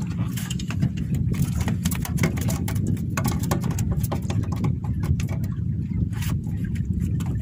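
Small fishing boat's engine running steadily, with frequent irregular splashes and knocks of water against the hull.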